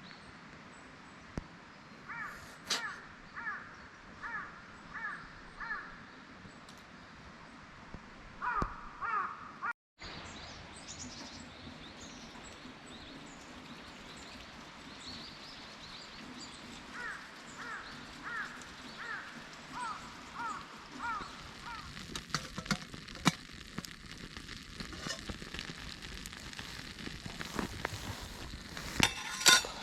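Crows cawing in runs of quick repeated caws: a few seconds in, again around nine seconds, and a longer run of about eight caws a little past the middle. Sharp clicks and crackles fill the last several seconds, loudest near the end.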